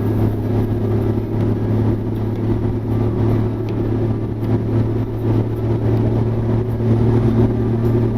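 Overland vehicle's engine running steadily on the move, a constant low hum with no change in pitch.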